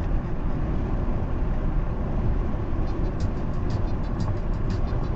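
Steady road and engine rumble of a car driving on a highway. About three seconds in, music with a ticking beat of roughly three to four ticks a second comes in over the rumble.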